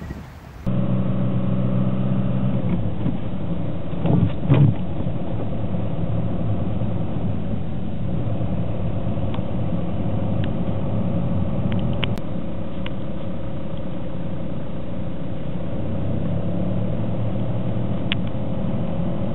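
A car engine running steadily at a constant pitch, with two short louder noises about four seconds in.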